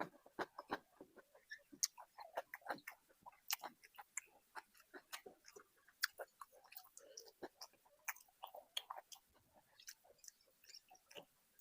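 Close-miked wet chewing and mouth smacks, many short irregular clicks several times a second, as someone eats rice with curry.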